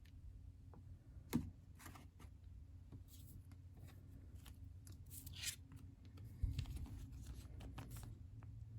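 Trading cards and plastic card sleeves being handled: light rustling and small clicks, with one sharp click about a second and a half in, a louder rustle past the middle and a soft thump shortly after.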